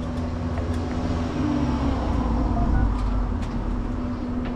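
Car engine idling with a steady low hum, a few faint clicks over it.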